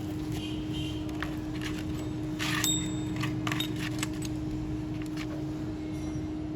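Light metallic clinks and rattles of hand tools and small parts being handled, over a steady low hum with one constant tone.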